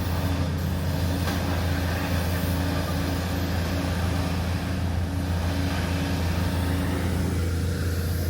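A large engine running steadily nearby, a low even drone with no change in speed.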